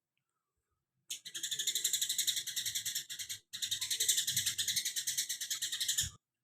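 Cucak kinoi songbird singing a tight, rapid chatter copied from a house sparrow (burung gereja), the 'tembakan greja' phrase. It comes in two long, high runs of about ten notes a second, with a short break in the middle.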